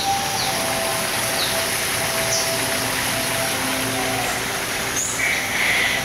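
Small birds chirping: a few short, high chirps about a second apart, then a longer call near the end, over a steady hiss.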